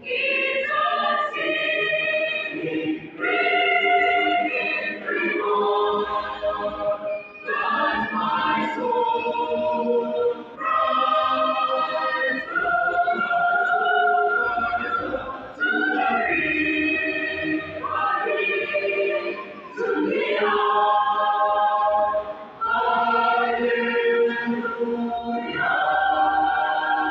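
Choir singing in long held phrases, with short breaks between the lines.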